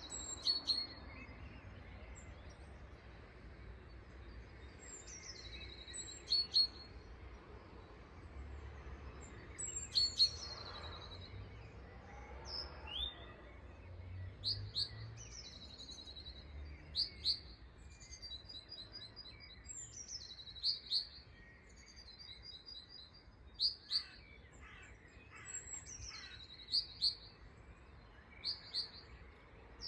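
Several wild birds chirping in an early-morning chorus: short, clear calls, many sliding down in pitch, come every second or two, with a couple of quick runs of repeated notes midway. A faint, steady low background hum lies underneath.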